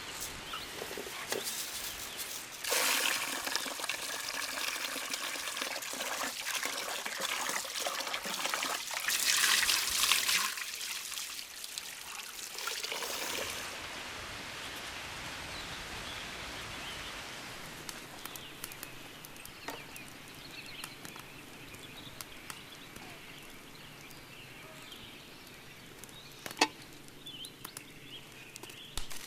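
Liquid pouring and trickling, loudest in the first half with a stronger pour about nine to ten seconds in, then a quieter steady hiss with a few sharp clicks near the end.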